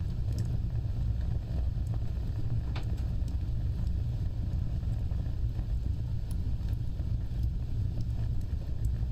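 Fire burning with a steady low roar of flames and scattered sharp crackles and pops, one louder pop about three seconds in.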